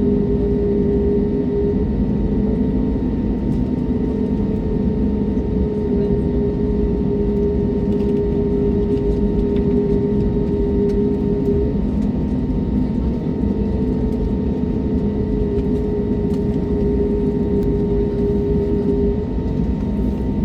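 Airliner engines and airflow heard inside the passenger cabin: a loud, steady rushing drone with a constant hum running through it.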